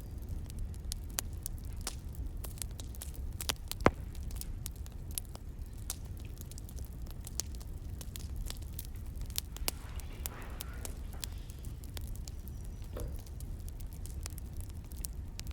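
Wood fire crackling: irregular sharp pops and snaps over a steady low rumble, with one loud pop about four seconds in.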